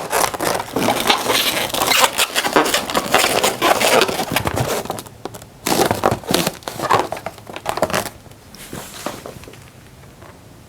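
Inflated latex heart balloons squeaking and rubbing against each other and the hands as two small bubbles are twisted together. Dense crackly squeaking for about five seconds, then a few short spells, quieter near the end.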